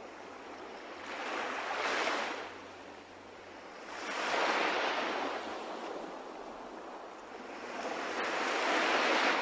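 Sea waves washing in slow surges, swelling and fading three times.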